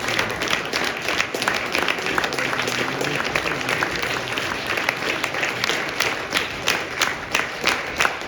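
Theatre audience applauding at the curtain call. About halfway through, the clapping falls into unison, in a steady rhythm of about two claps a second.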